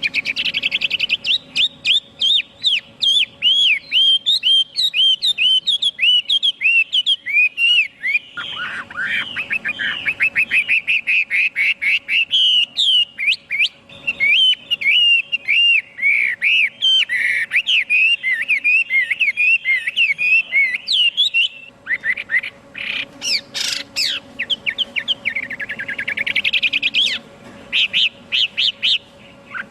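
Chinese hwamei singing a long, fast, varied run of whistled and slurred notes. It breaks off briefly about two-thirds of the way through, then resumes with louder sweeping phrases.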